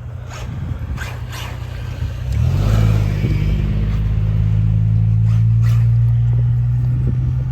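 A passenger car's engine running low and steady as the car creeps slowly past, growing louder about two seconds in as it comes close.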